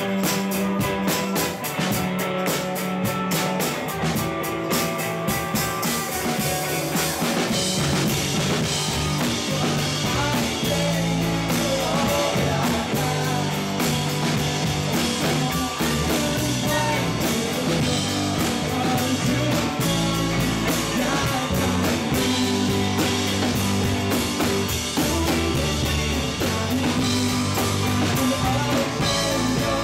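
Live rock band playing on stage: electric guitars, bass and drum kit with singing, in a steady groove.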